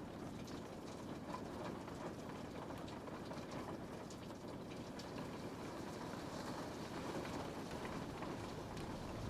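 Rain falling on a window: a steady hiss with many scattered light taps of individual drops.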